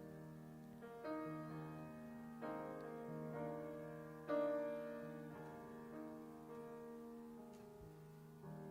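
Soft, slow piano playing the closing bars of a carol: single notes and chords struck about once a second and left to ring and fade, with a slightly firmer chord about four seconds in.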